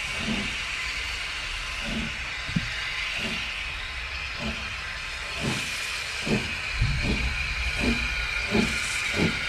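Steam locomotive pulling away, its exhaust chuffs coming faster and faster over a steady hiss of steam.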